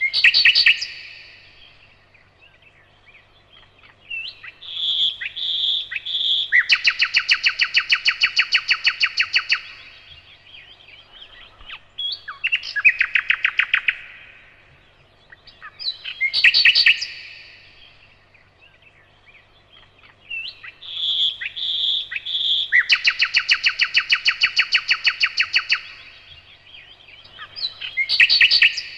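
Nightingale singing in separate phrases with short pauses. The phrases are loud repeated whistled notes and long, fast runs of rapidly repeated notes, the longest of them, about three seconds, heard twice.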